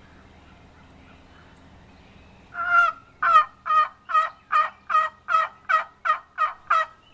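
Turkey box call worked in a string of eleven evenly spaced, loud yelps, starting a little over two seconds in, imitating a hen turkey to make a gobbler answer.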